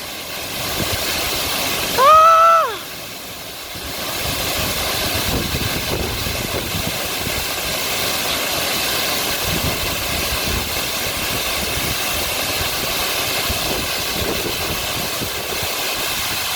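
Steady rushing of a waterfall. About two seconds in, a short high call rises and falls in pitch, and the rush then dips for about a second before going on steady.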